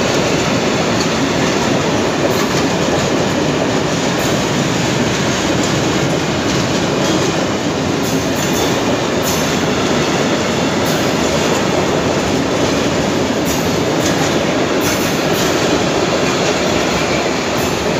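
Freight train of open-top wagons passing close by: a steady, loud rumble and rattle of steel wheels on the rails, with scattered sharp clicks.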